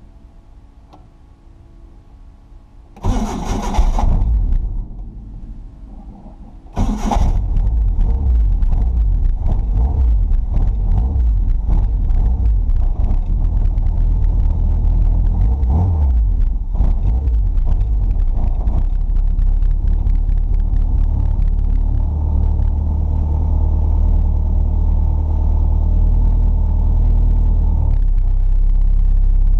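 Cold start of a carbureted Nissan KA24DE four-cylinder on a Weber 38, heard from inside the cab: the starter cranks about three seconds in, the sound fades back down, then a second crank about seven seconds in brings the engine to life. It then runs unevenly at first and settles into a steadier idle after about twenty seconds.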